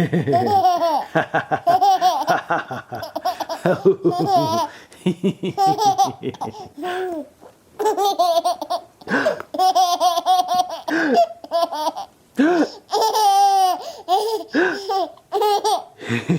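A baby laughing in repeated bursts of giggles and high-pitched, warbling squeals, the baby's "dolphin sounds".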